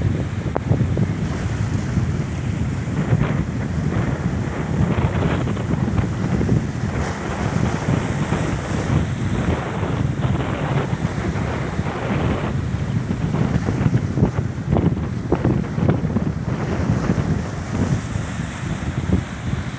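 Strong wind buffeting the microphone in uneven gusts, with sea waves surging against a rock breakwater.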